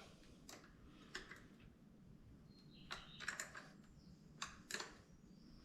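Faint, scattered sharp clicks and light taps of hand tools on metal, about six in all, with a small cluster in the middle, over near silence.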